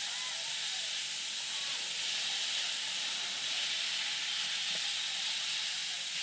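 Steady, even hiss with faint distant voices now and then.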